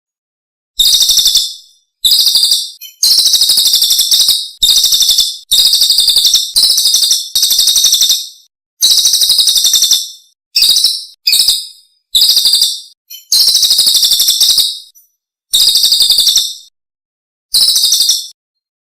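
Recorded songbird song played as a masteran training track: about a dozen fast, high-pitched trilled phrases, each lasting about a second, separated by short gaps of dead silence.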